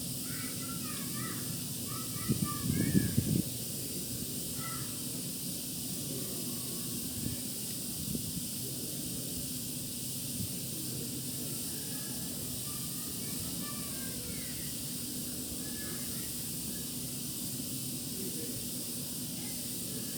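Steady outdoor hiss with a low rumble, scattered short bird calls, and a brief louder rumble about two seconds in.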